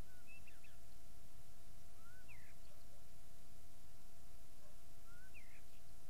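A bird calling three times, about two and a half seconds apart. Each call is a short rising note followed by a higher, quick note. Under it run a steady low rumble and a faint steady hum.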